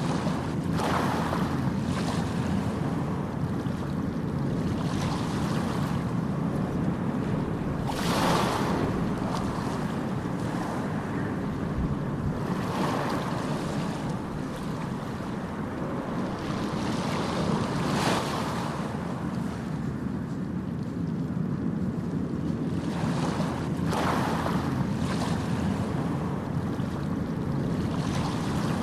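Ocean surf: a steady low rumble with waves breaking and washing in every few seconds, the biggest breakers about eight seconds in and again around eighteen and twenty-four seconds in.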